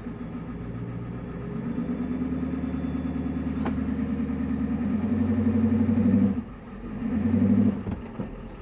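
1994 Ford F Super Duty's 7.3 IDI diesel engine revving hard under load in two pushes, one long and one short, with a sudden drop between them. The truck is stuck with its front tires dug in and does not come free.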